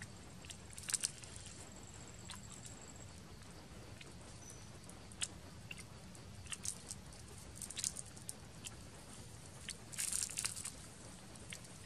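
Eating sounds of grilled water snake being bitten and chewed: scattered crunches and chewing, with the loudest burst of crunching about ten seconds in.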